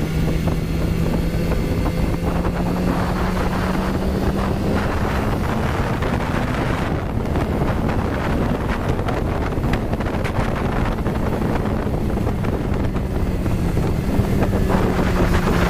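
Motorcycle engine running at a steady road speed, its pitch shifting only slightly, under heavy wind noise on the microphone.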